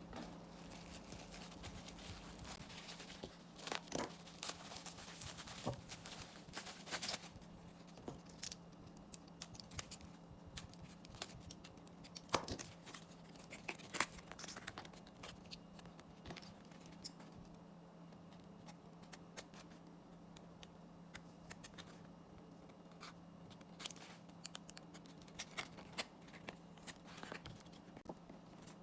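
Faint handling of photocard packaging: scattered small clicks, snips and crinkling rustles, busiest in the first few seconds, over a steady low hum.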